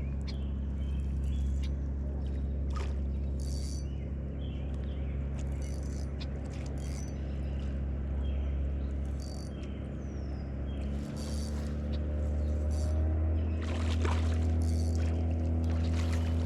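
Steady low hum of a small boat motor, which shifts after a click about eleven seconds in and climbs a little in pitch, with water trickling and short bird chirps over it.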